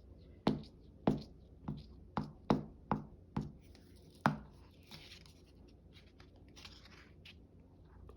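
A run of eight sharp knocks on a tabletop, about half a second apart, followed by soft paper rustling.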